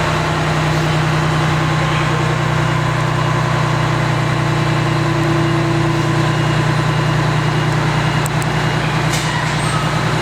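Fire engine's diesel engine running with a steady, even drone, heard from inside the cab. A couple of faint clicks come near the end.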